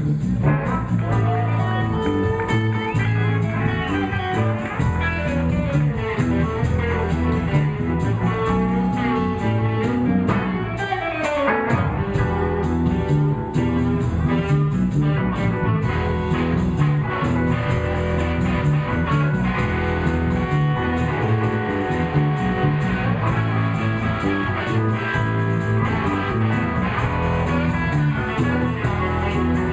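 Live blues band playing an instrumental stretch with a guitar solo over bass and drums, to a steady beat.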